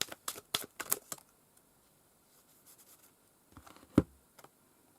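Tarot cards being shuffled: a quick run of crisp flicking clicks for about the first second, then a single sharp tap about four seconds in as a card is handled or laid down.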